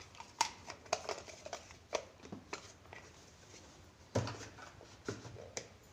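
Small items, such as nail polish bottles, being handled and set down into a container, giving a series of light clicks and knocks with a heavier knock about four seconds in.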